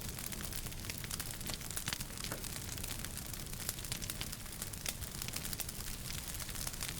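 Wood fire crackling in a fireplace: many quick, irregular pops and snaps over a steady hiss and low rumble of burning.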